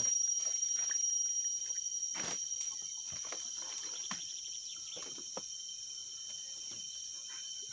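A steady high-pitched insect chorus of crickets or cicadas, made of two constant tones, with a few scattered soft clicks and taps.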